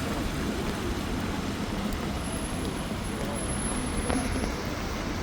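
Rain on a city street with road traffic: a steady hiss of rain and wet road noise over a low rumble of vehicle engines.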